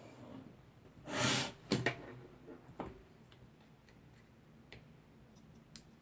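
Short rustle followed by a few light clicks and ticks of small parts being handled during Cat6 cable work, then faint scattered ticks.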